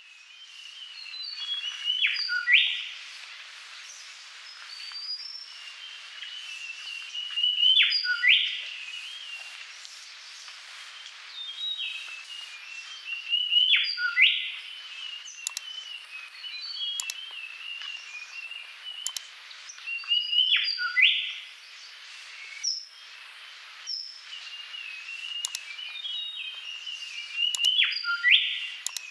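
Birdsong: a steady stream of small chirps and twitters, with a louder call ending in a quick upward sweep that comes back about every six seconds.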